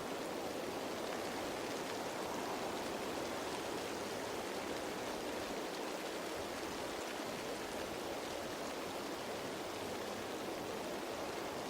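Steady rain falling on leaves, a dense, even hiss of raindrops.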